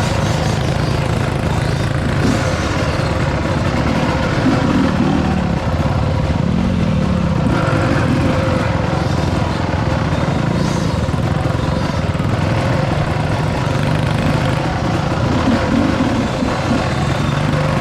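Dirt bike engine running steadily on a trail ride, its pitch rising and falling a few times as the throttle is worked.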